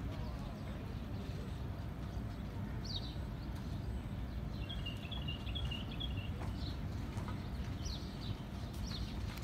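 Small birds chirping: a short high call every couple of seconds and a quick twittering run around the middle, over a steady low rumble.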